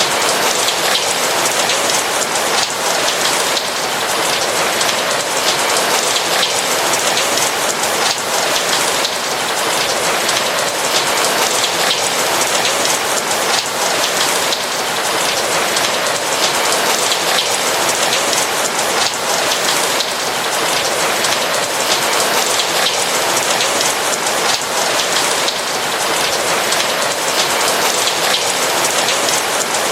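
Steady heavy rainfall, a dense even patter of raindrops hitting a roof, with no thunder.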